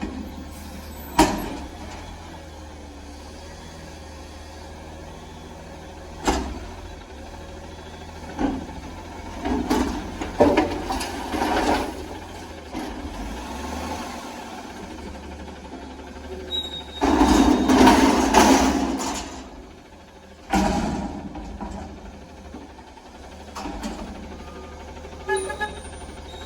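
Front-loader garbage truck running while it services a commercial dumpster: sharp metal bangs, a stretch of clattering, and a loud rushing burst lasting about two seconds near two-thirds of the way through.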